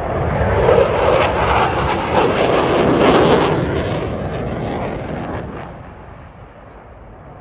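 A JF-17 Thunder fighter jet's engine running loud as the jet flies past during its display. The noise is loudest about three seconds in, then fades away over the last couple of seconds.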